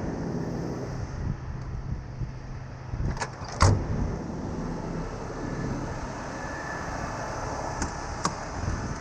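A truck engine idling steadily, with two sharp knocks a little over three seconds in, the second the loudest, and a couple of light clicks near the end.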